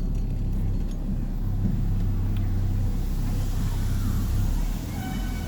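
Vehicle engine and road noise heard from inside the cab while driving: a steady low hum and rumble.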